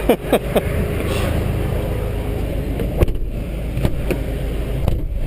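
Vauxhall Corsa VXR Nurburgring Edition's 1.6-litre turbo four-cylinder idling with a steady low hum, with a few short shouts at the start and a sharp knock about three seconds in.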